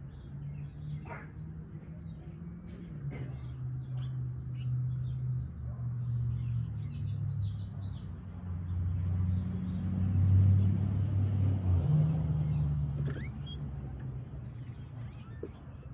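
Small backyard birds chirping and tweeting in short calls, with a denser run of song about seven seconds in, over a low droning hum that swells to its loudest around ten to twelve seconds in and then eases off.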